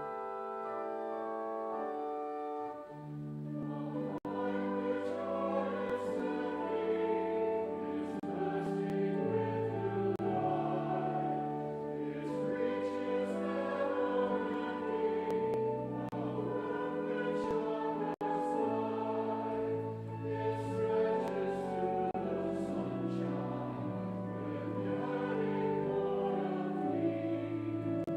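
Brass quintet playing a slow, chordal piece of sacred music, with long held notes that move together from chord to chord.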